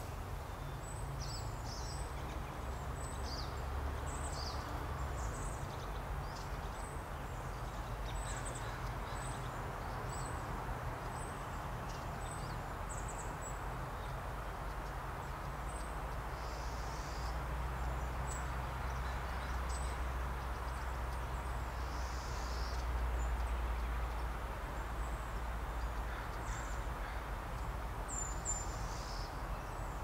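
Short, high bird chirps, about one a second at first and then scattered, over a steady low outdoor rumble.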